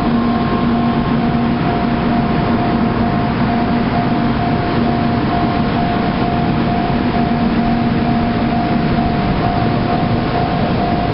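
N700-series Shinkansen set rolling over a level crossing: a steady rumble of wheels and running gear, with a level crossing alarm ringing a repeating two-note tone over it.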